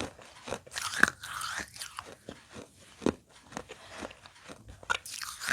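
Pieces of broken baked clay pot bitten and chewed. There is a sharp crunch about a second in, then smaller crackling chews, and another crunch near the end.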